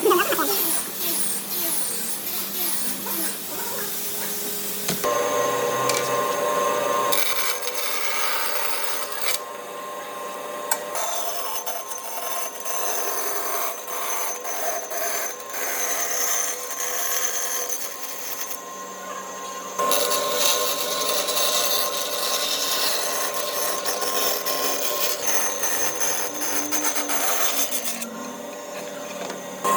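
Power tool working wood: a motor's steady whine under a rasping, abrasive scraping, changing abruptly a few times.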